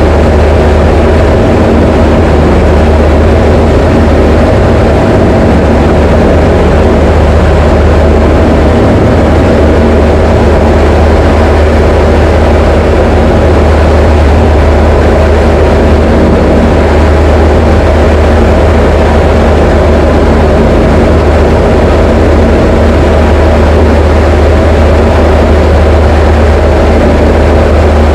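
Steady, unbroken drone of a Diamond DA20 light aircraft's piston engine and propeller, with a strong deep hum.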